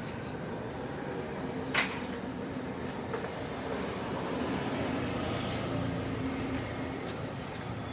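Steady running noise of a motor vehicle, with a sharp click a little under two seconds in.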